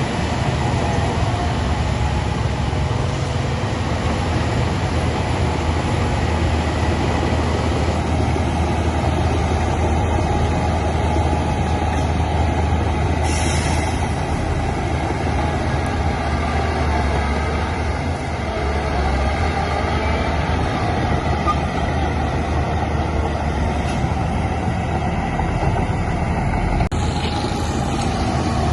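Heavy diesel earthmoving machinery running steadily under load, with a deep, constant engine hum. A brief hiss comes about halfway through, and a sharp click comes near the end.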